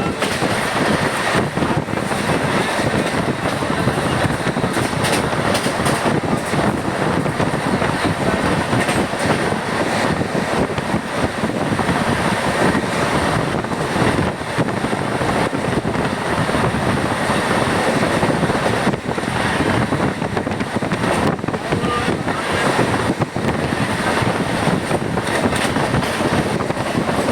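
Passenger train running along the track: a steady, loud rushing noise of wheels on rails and air, with no clear rhythm.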